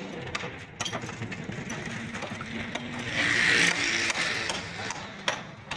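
Metal clicks and clatter of hand tools working on a motorcycle engine, with a louder burst of noise about three seconds in.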